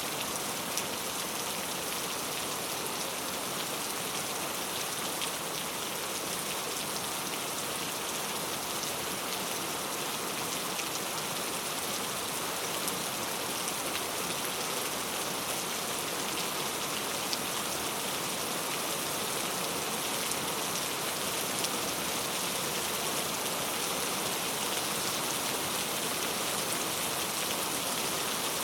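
Steady rainfall with many small drop patters on a surface, an even hiss that does not change.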